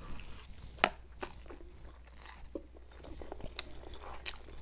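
Close-miked mouth sounds of someone chewing a mouthful of Korean instant noodles: scattered wet smacks and clicks, one sharp click about a second in standing out above the rest.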